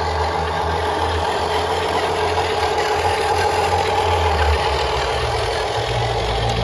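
Huina 1573 radio-controlled dump truck running with a steady low engine-like hum and a higher whine above it. The hum changes pitch about five seconds in.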